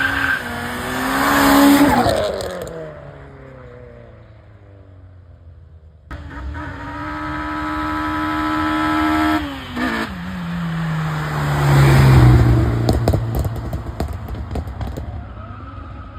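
Two Japanese performance cars pulling away and passing one after the other, each engine held at steady revs and then dropping in pitch as it goes by. A quick burst of sharp crackles follows the second pass.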